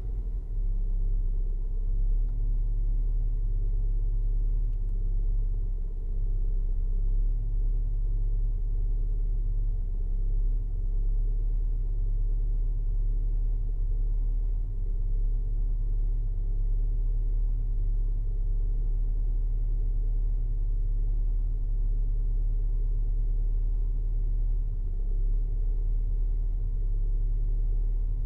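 Ford Fiesta car running steadily, a low, even rumble with no revving.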